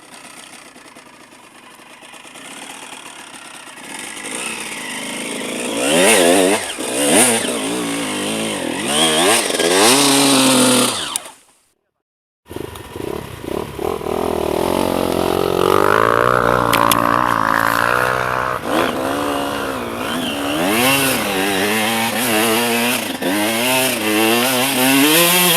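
Enduro motorcycle engine revving hard, pitch repeatedly rising and falling under load as the bike climbs. It grows from faint to loud over the first few seconds, cuts out abruptly for about a second near the middle, then revs on.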